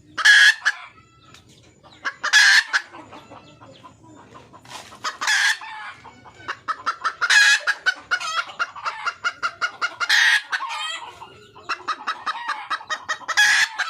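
Red junglefowl hen calling for a mate: six loud short calls at intervals of two to three seconds, with rapid runs of clucks between them.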